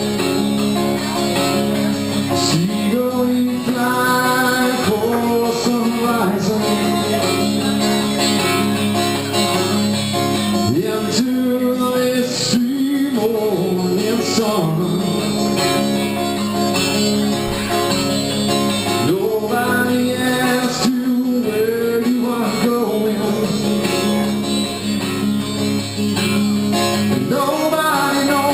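Live band music: a rock ballad led by guitar, played continuously.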